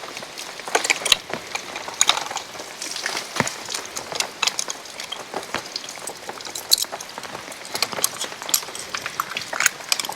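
Irregular patter of water drops and small splashes over a steady light hiss.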